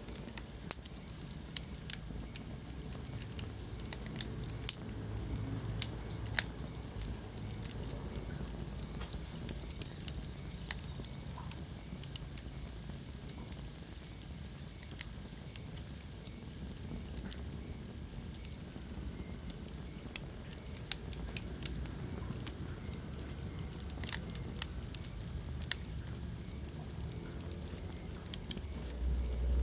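Wood fire burning in a fireplace, crackling with irregular sharp pops and snaps over a steady low rumble of flames; the rumble grows louder near the end.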